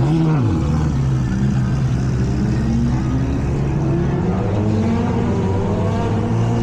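A car engine revving up and back down at the start, then running with a steady drone whose pitch climbs slowly in the second half.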